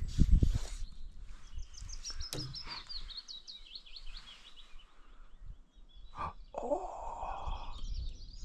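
Small birds singing: a quick run of short, falling high notes in the first few seconds and more high chirps later, with a lower, rougher call about seven seconds in. A low thud, the loudest sound, comes right at the start.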